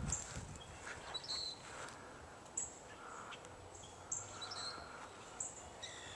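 Birds calling outdoors: faint, short chirps and calls every second or so over a low background hiss.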